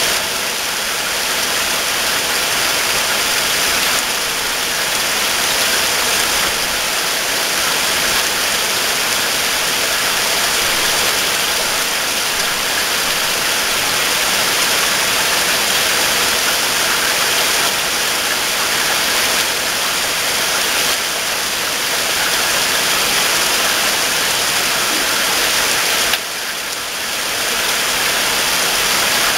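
Heavy rain falling steadily, a dense even hiss, with a brief drop in level a few seconds before the end.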